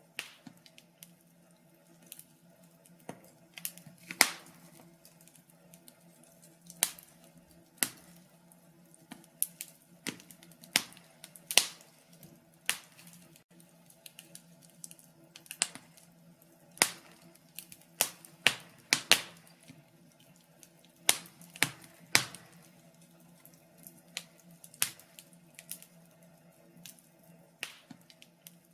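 Wood fire in a fireplace crackling, with irregular sharp pops and snaps, a few louder ones clustered around the middle, over a faint steady background.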